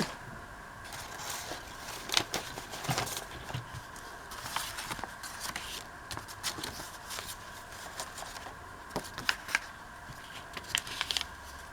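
Sheets of paper and card being handled on a table: scattered light rustles and small taps.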